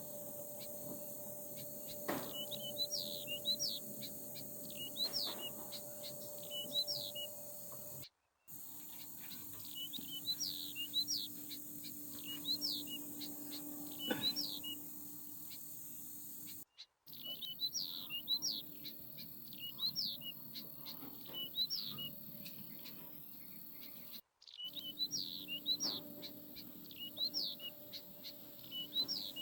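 Small birds chirping over and over, quick chirps sliding up and down in pitch in rapid clusters, over a faint steady hum. The sound cuts out completely for a moment three times.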